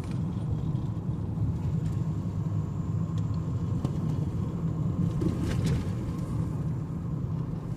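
Steady low rumble of a car driving slowly on a wet road, engine and tyre noise together.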